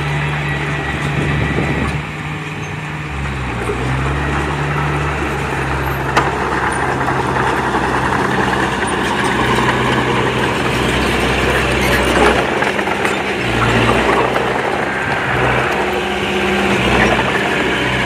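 Heavy-equipment diesel engine running under changing load, its pitch dropping and rising a few times over steady mechanical noise.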